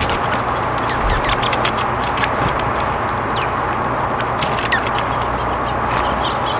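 Small wild birds chirping, with many short high calls scattered through, over a steady background hiss, with scattered sharp clicks.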